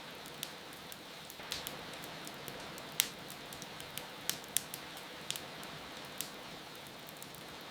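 Wood fire crackling with irregular sharp pops, the loudest about three seconds in, over a steady hiss of rain.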